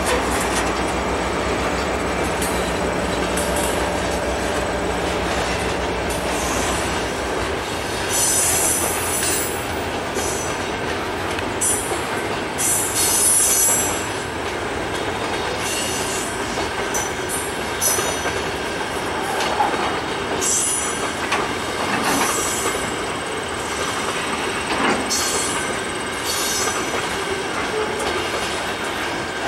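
Loaded freight cars of a heavy scrap train rolling slowly past, the wheels clacking over the rails with repeated short bursts of high wheel squeal. A low steady hum fades out about seven seconds in.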